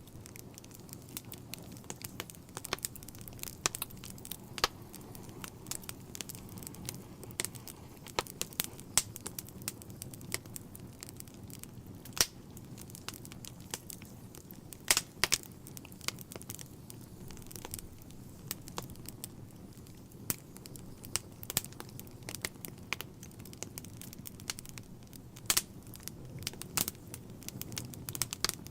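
Wood fire burning in a fireplace: a low steady hiss of the flames with irregular crackles and sharp pops from the burning logs.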